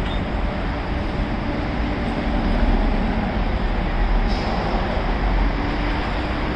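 New York City subway train running through the station, a steady rail rumble with a faint hum.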